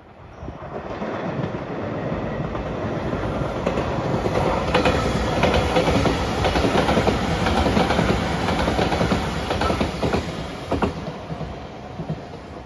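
JR Shikoku 8000 series electric limited express train passing close by at speed. Its running noise builds over the first couple of seconds and is loudest in the middle, with sharp clacks of the wheels over rail joints. It fades as the train draws away near the end.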